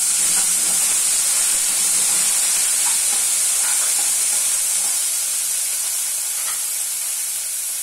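Boiled white peas sizzling loudly in hot oil in a frying pan as they are tipped in, the sizzle slowly dying down while a spoon stirs them with a few faint scrapes.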